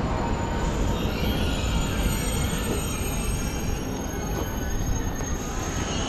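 Railway station noise: a steady low rumble with a wavering high metallic train squeal, about a second in and again near the end.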